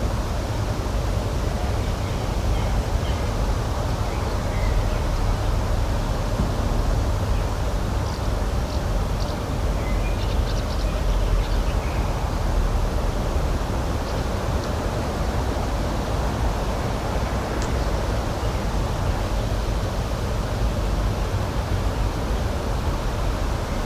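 Outdoor nature ambience: a steady rushing noise, heaviest in the low end, with a few faint bird chirps in the middle.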